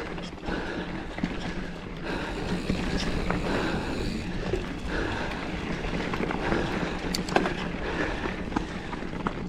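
Mountain bike riding on a dirt trail: knobby tyres rolling over dirt and roots with steady rumbling noise, and scattered sharp clicks and rattles from the bike, with wind rushing across the camera microphone.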